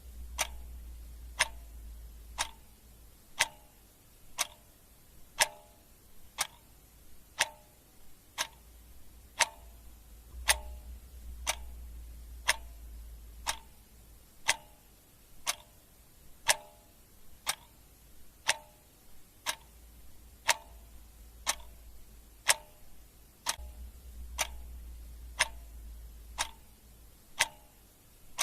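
Clock ticking steadily at about two ticks a second, the ticks alternating louder and softer in a tick-tock pattern.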